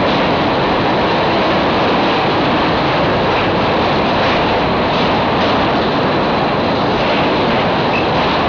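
Passenger train running across a steel truss railway bridge, heard from an open carriage window: a steady, loud rushing noise of the wheels on the rails.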